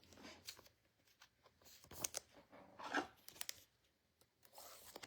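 Faint rustling and a few soft clicks of trading cards being handled and slid against each other.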